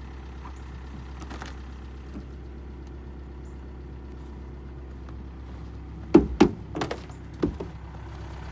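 A quick cluster of four or five sharp knocks and thunks about six seconds in, over a steady low rumble.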